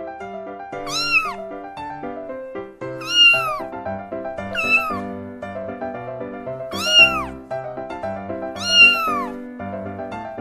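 A cat meowing five times, each call rising then falling in pitch and under a second long, over background piano music.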